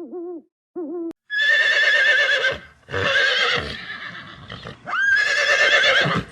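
Two short hooting calls at the start, then a horse whinnying three times, each a long neigh with a quavering pitch.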